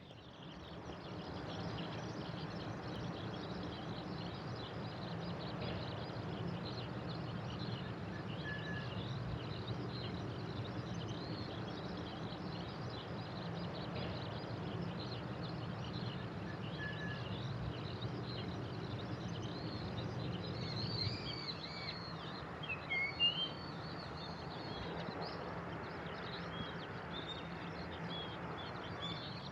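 Many small birds chirping and calling over steady outdoor background noise, with a louder burst of calls about two-thirds of the way in. A low steady rumble runs underneath and fades out near the same point.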